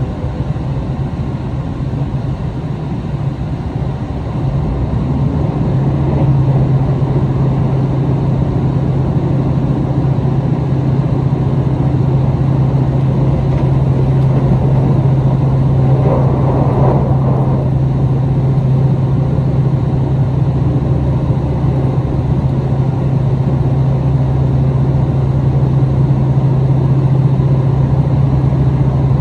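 Cabin running sound of a KiHa 261 series diesel limited express railcar (car KiHa 260-1212): a steady low diesel engine drone under the rolling noise. The drone grows louder and steadier about five seconds in, and a short rushing noise passes about halfway through.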